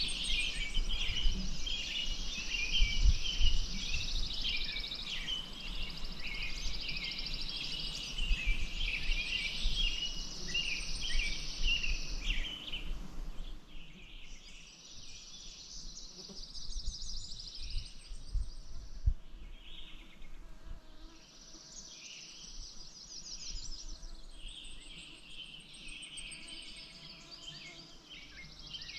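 Several birds singing and chirping, with rapid high trills, busiest in the first half and thinning after about 13 seconds. Irregular low rumbles sit underneath.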